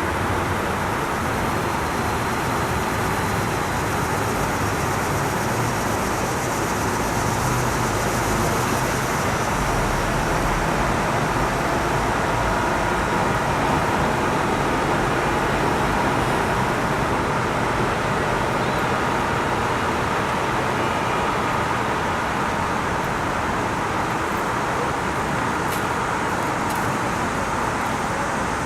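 Heavy thunderstorm rain falling in a steady, even hiss, with no thunderclap.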